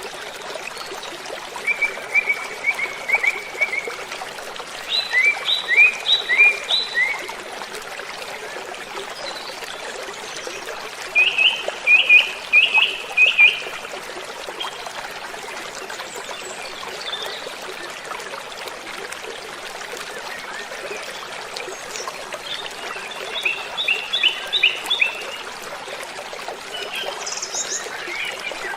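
Steady rush of falling water, with a bird singing short bursts of quick repeated chirps four times, each burst lasting two or three seconds, and a few higher notes near the end.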